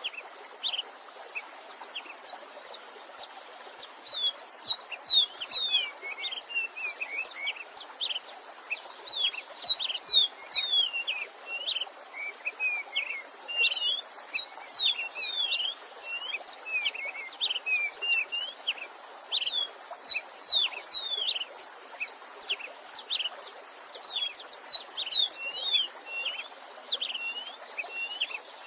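A songbird singing a fast, repeated phrase of high quick notes and down-slurred whistles, about every five seconds, over the steady rush of a stream.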